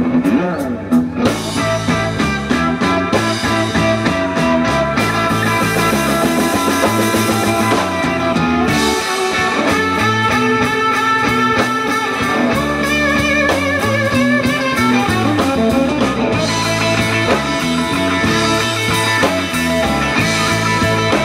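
Live blues-rock band playing an instrumental stretch, led by electric guitar over bass and drums.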